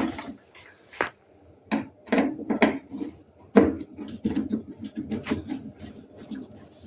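Phillips screwdriver backing screws out of a Rinnai gas heater's front casing: a single click about a second in, then a run of quick, irregular clicks and scrapes.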